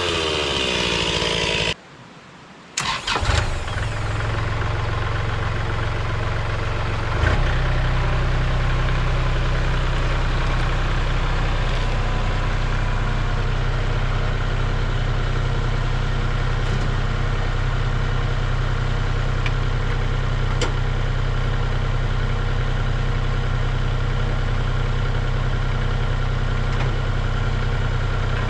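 Kubota L3301 tractor's diesel engine running at a steady speed, with a short knock about seven seconds in where its sound shifts slightly.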